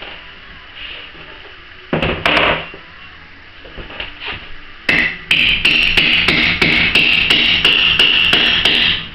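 A single knock about two seconds in, then from about five seconds a fast run of hammer strikes on a metal tool, about three a second, each leaving a ringing tone that carries on between blows, as a tightly wedged laminate plank is worked loose.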